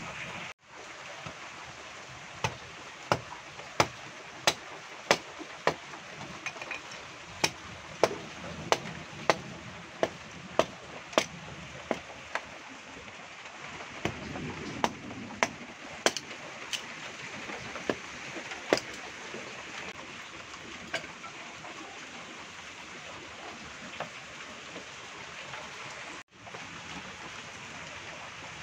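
Heavy rain falling steadily. For much of the time it is overlaid by a run of sharp, evenly spaced ticks, about one every two-thirds of a second, which stop about two-thirds of the way through.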